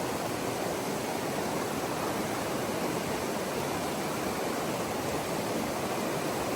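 Backcountry river water rushing steadily, an even hiss with no distinct events.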